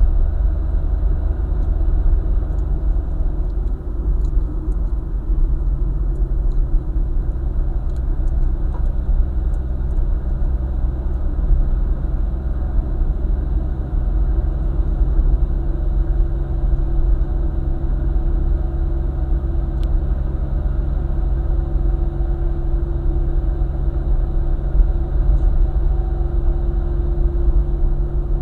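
Car driving along a highway: a steady low rumble of road and engine noise with a faint even hum.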